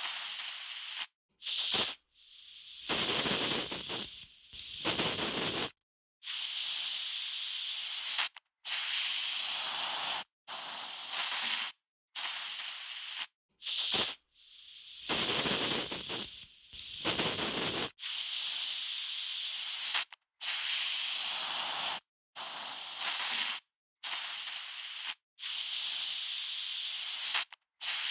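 Aerosol spray can spraying in a series of hissing bursts, each lasting about one to two seconds with brief silent gaps between, two of them longer, at around three to four seconds each.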